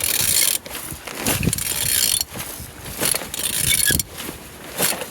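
A removed car engine (code QXBA) being turned over by hand: four rasping, hissing spells about a second apart as the crankshaft is rotated, the engine turning freely rather than seized.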